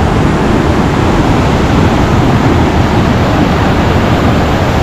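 The Linville River rushing steadily over boulders, a loud, even roar of water with no breaks.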